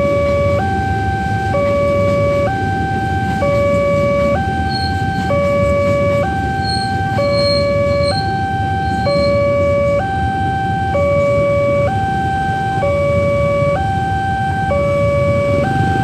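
Railroad level-crossing warning alarm sounding a repeating two-tone signal, a lower and a higher tone alternating about once a second, the signal that a train is approaching and the gates are down. Underneath runs a steady low rumble, with a few brief high chirps about five to nine seconds in.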